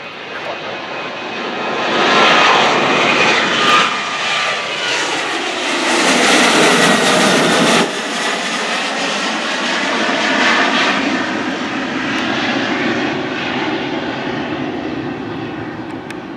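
Southwest Airlines Boeing 737 jet airliner passing on its takeoff run and climb-out. The engine noise swells to a loud peak, then falls in pitch as the jet goes past, with a sudden dip about eight seconds in, and fades.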